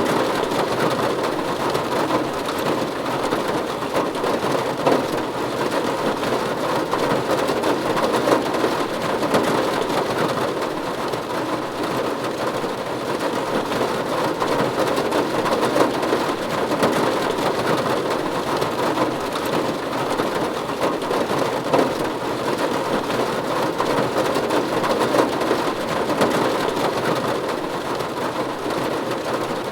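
Steady rain falling on a roof: a dense, even patter with small louder drops scattered through it.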